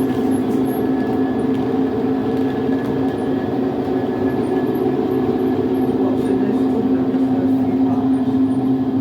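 Model railway locomotive running on the layout, a steady even hum with several held tones and faint high chirps, no change in speed.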